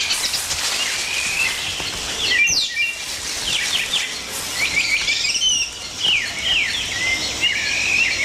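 Rainforest ambience: many short bird chirps and whistles, some sliding down in pitch and some rising, over a steady high hiss.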